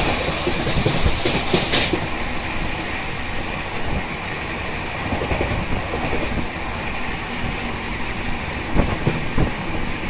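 Purva Express passenger coaches running along the track, heard from an open coach doorway: wheels clattering over rail joints under a steady rush of running noise, with a few louder knocks near the end.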